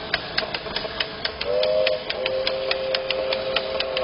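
Battery toy train running round its plastic track, clicking steadily about four to five times a second. A steady tone of a few notes joins in from about a second and a half in.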